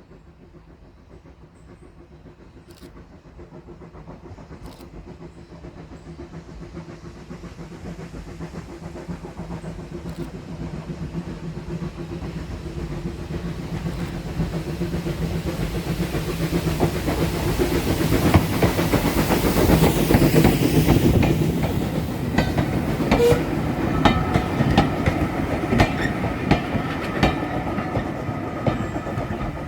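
Steam locomotive approaching and passing, growing steadily louder for about twenty seconds. In the last third its wheels click rhythmically over the rail joints as it goes by.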